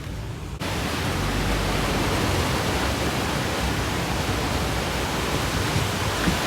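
Steady, even rush of hurricane-force wind, starting abruptly about half a second in.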